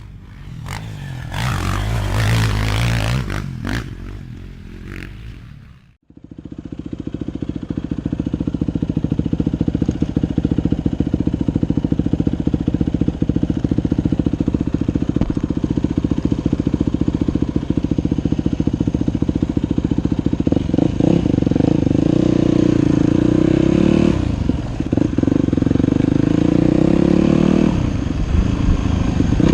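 Dirt bike engine running steadily with fast, even firing pulses, easing off briefly twice near the end. Before it, a different, noisier sound fills the first six seconds and cuts off abruptly.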